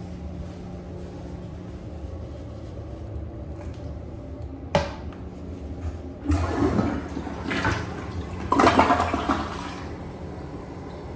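A restroom fixture flushing. A sharp click comes about five seconds in, then rushing water runs for about four seconds, loudest near the end, and dies away.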